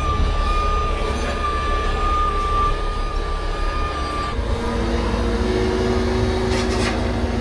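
Heavy truck engine running, with a steady high whine over a low rumble. About four seconds in the whine stops and a lower, steady engine tone takes over.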